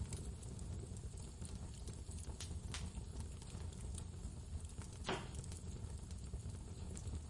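Wood fire crackling in a fireplace, with scattered small pops and a louder one about five seconds in, over a steady low rumble of blizzard wind.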